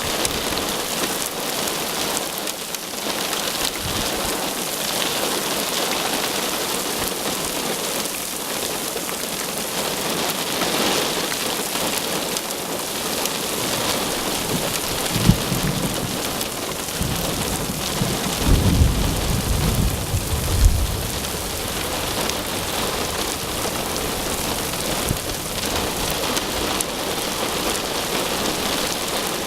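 Heavy rain falling steadily during a severe thunderstorm. Thunder rumbles for several seconds about halfway through, with a few sharper cracks.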